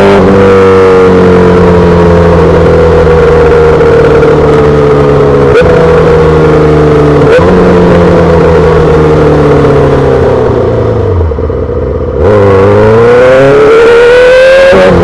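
2008 Yamaha R6's inline-four engine running through a full SC-Project exhaust, heard from the rider's seat. The engine note sags slowly for about ten seconds, with two short snaps along the way. It then drops away briefly and climbs again as the bike accelerates.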